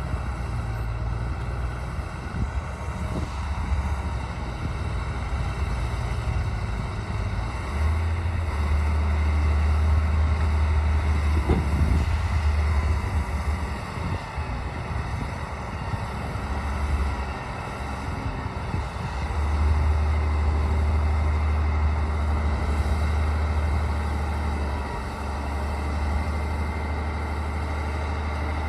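D60 bulldozer's diesel engine running under working load. Its low rumble swells for a few seconds about a third of the way in, eases, then swells again from about two thirds in.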